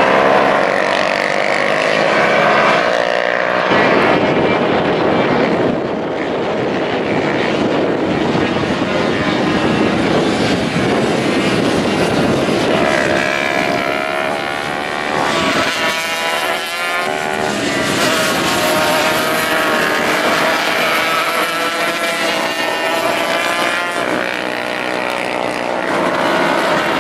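Small-displacement racing motorcycles at full throttle, engine pitch rising and falling as they accelerate, shift and pass.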